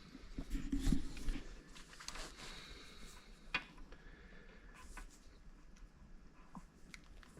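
Scattered light knocks and clicks with some rustling, busiest about a second in, as parts and tools are handled during mechanical work.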